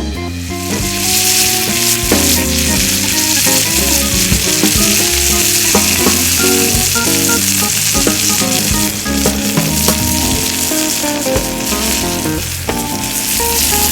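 Food sizzling on the grate of a fire pit, a steady hiss that starts about a second in, under background music with a bass line.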